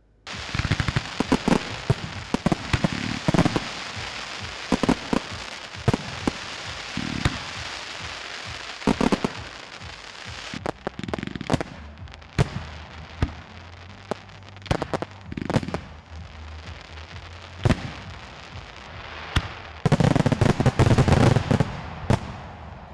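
Fireworks and firecrackers going off: sharp bangs at irregular intervals over continuous crackling, with a dense rapid run of bangs about twenty seconds in.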